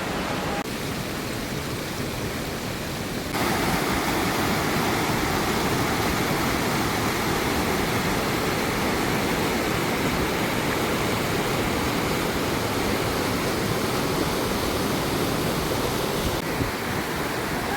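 Waterfall rushing steadily, stepping up in level about three seconds in.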